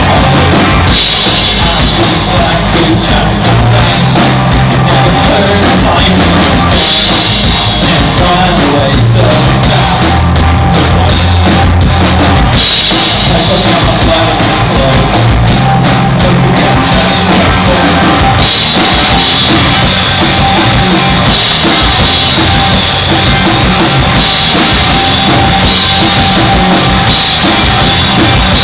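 Noise-rock band playing live, loud: a drum kit and heavily distorted electric guitars with bass, in a dense, unbroken wall of sound.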